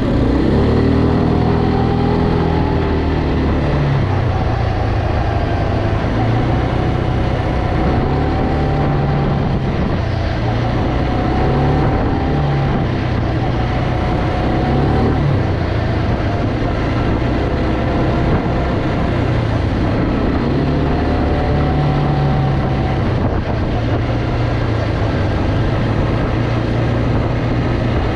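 Quad bike engine running while being ridden, its pitch rising and falling with the throttle, over a steady rush of noise.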